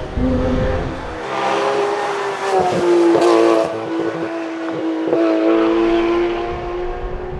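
Porsche 911 GT3 RS flat-six engine running under way. Its pitch dips and jumps briefly two to three seconds in and again around five seconds, then holds fairly steady.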